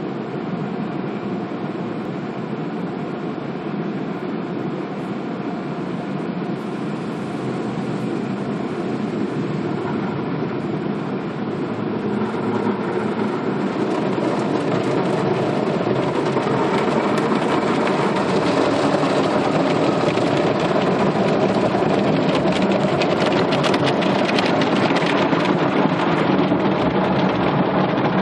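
Automatic car wash running: a steady machine rumble with spraying water, growing louder about halfway through as the spray hitting the car gets stronger.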